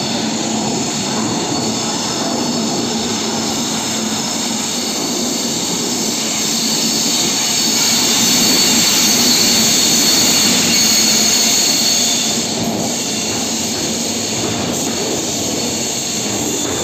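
Express train pulling into a station platform: the locomotive's steady running noise grows and is loudest as it passes, about eight to twelve seconds in, then the coaches roll past with a high whine of the wheels and brakes over the rumble.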